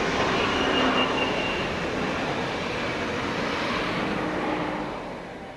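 Passenger train passing at speed: a steady rushing rumble of coach wheels on the rails, fading out over the last second or so as the final coach goes by.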